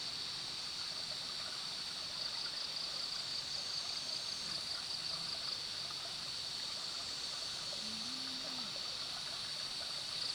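Insects trilling in a steady, high, pulsing chorus over a continuous rushing hiss. The chorus fades somewhat about halfway through and comes back near the end, and one short low voice-like sound comes about eight seconds in.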